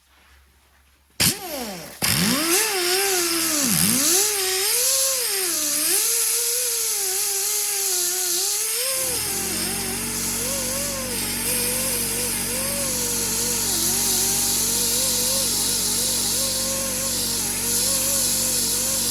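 Electric drill spinning a cylinder hone in an engine bore. The motor's pitch wavers up and down continuously as the hone is worked through the cylinder, and a steady low hum joins about nine seconds in.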